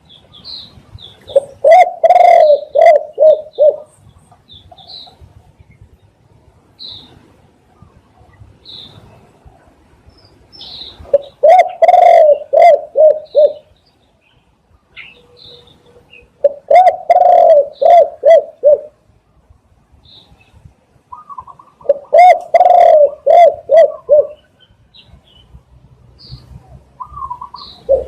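Spotted dove cooing: four phrases of several low, rolling coo notes each, spaced a few seconds apart, with another phrase starting at the very end. Faint short high chirps sound between the phrases.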